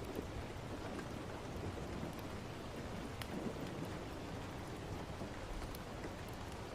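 Steady rain ambience: a continuous even hiss of rainfall with a low rumble underneath and a few faint ticks of single drops.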